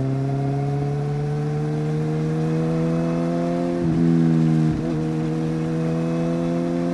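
Inline-four superbike engine pulling under way, its pitch climbing slowly. There are two short dips and recoveries in pitch about four and five seconds in, and it is louder for a moment just after the first.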